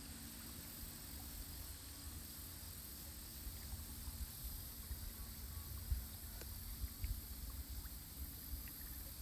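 Quiet river ambience from a drifting kayak: a low wind rumble on the microphone and a steady faint high hiss, with a few small knocks from the kayak from about six seconds in.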